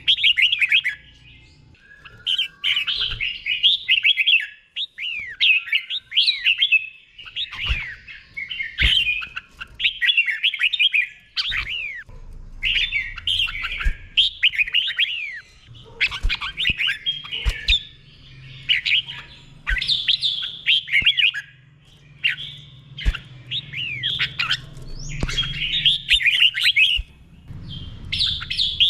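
Red-whiskered bulbul singing a slow, clear doubled song: short warbled phrases of quick rising and falling whistles, repeated every second or two with brief pauses between them.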